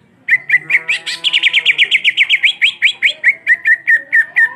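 Greater green leafbird (cucak ijo) singing a fast rolling phrase: a rapid run of short, upward-flicked whistled notes, about six a second, starting a moment in.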